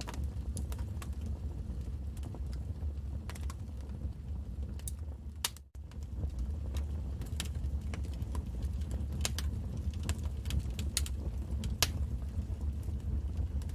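Wood fire crackling in a fireplace: irregular sharp pops and snaps over a low, steady rumble. The sound cuts out for an instant a little before the middle.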